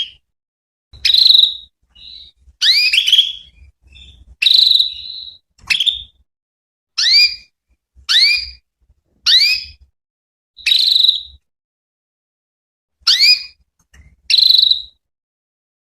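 Female canary calling: a series of short, high chirps, most sweeping quickly upward and some held as a brief steady whistle, about one a second with a pause of about two seconds near the end.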